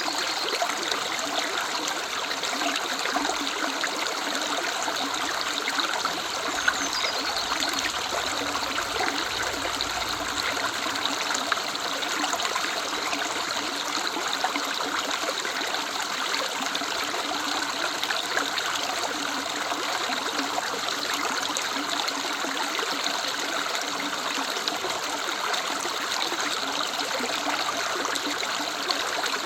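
Woodland river running, a steady rush and trickle of water.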